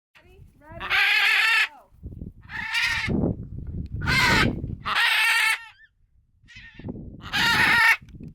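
Macaws squawking: about five loud, harsh, wavering calls, with a low rumble between them.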